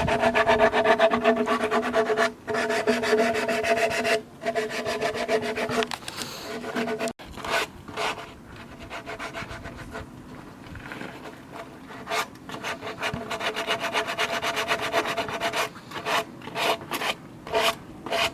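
A tool rasping and rubbing against wood in rapid strokes, with a steady hum under it for the first six seconds. After a sudden break about seven seconds in, the sound is quieter, then turns into separate louder strokes in the last six seconds.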